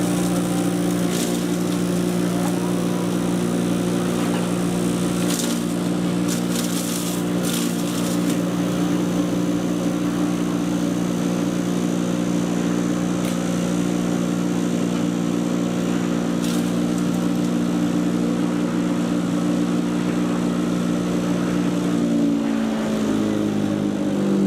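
Patriot 1.5-HP electric chipper shredder running with a steady motor hum, broken by a few short sharp cracks of wood going through it. Near the end the hum drops in pitch.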